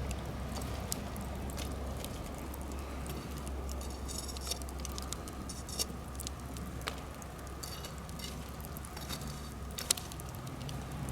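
Birch-log campfire burning: faint soft crackling with a few sharp pops, the loudest near the end, over a steady low rumble.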